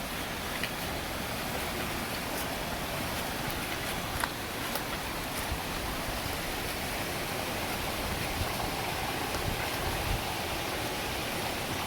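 Heavy rain falling steadily: a dense, even hiss with scattered sharp ticks of individual drops landing close by.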